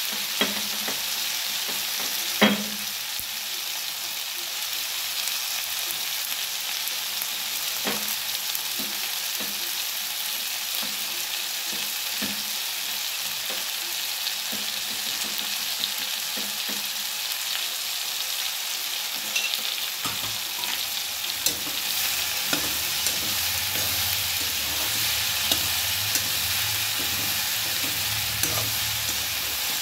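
Okra and tomato pieces sizzling in hot oil in a metal kadhai, a steady hiss. A few sharp clinks of the metal spatula against the pan come through, more of them in the last third as the vegetables are stirred.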